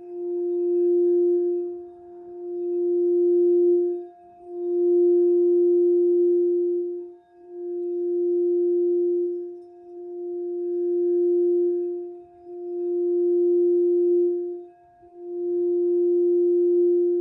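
Crystal singing bowl for the heart chakra, sounding one pure, steady tone with a faint higher overtone. The tone swells and fades about every two to three seconds, seven swells in all.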